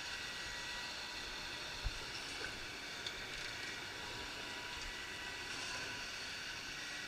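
Steady vehicle noise with a faint high whine running through it.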